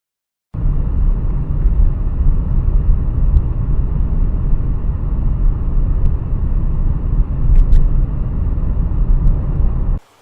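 Steady, loud rumble of a car on the road, engine and road noise, starting suddenly and cut off abruptly near the end.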